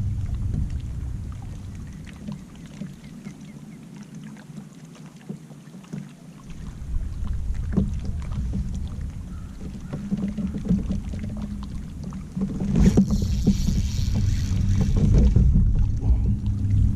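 Low steady rumble of wind on the microphone aboard a fishing kayak, with scattered small clicks and knocks of rod and reel handling. About three quarters of the way through comes a rush of hiss lasting about two seconds.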